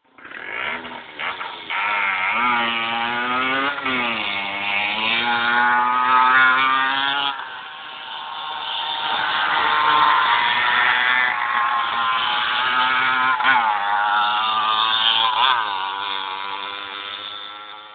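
Small child's motorbike engine running as it is ridden, its pitch rising and falling with the throttle. It dips in level about eight seconds in, comes back up, and fades away near the end.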